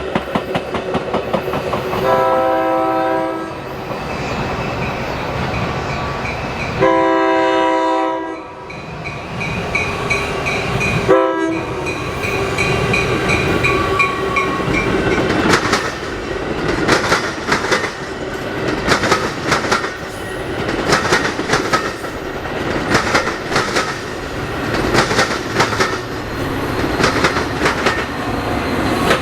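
Locomotive horn sounding two long blasts and a short one, then a train rolling past with the wheels clicking rapidly over rail joints.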